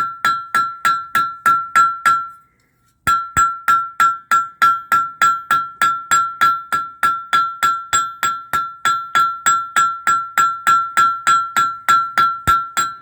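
Blacksmith's small hand-made texturing hammer, its face cut with lines, striking hot iron on an anvil to put lines into a forged leaf stem. Quick, even blows, about four a second, each with a bright anvil ring, pausing briefly about two and a half seconds in.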